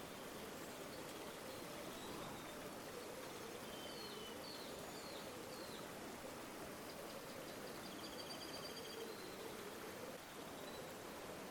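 River water flowing steadily with a soft gurgle. Small birds chirp several times in quick succession about four seconds in, and a rapid trilled call follows a few seconds later.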